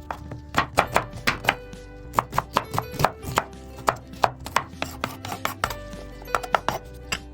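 Kitchen knife chopping on a cutting board: a run of sharp strikes, about two to three a second, with a short break about five and a half seconds in.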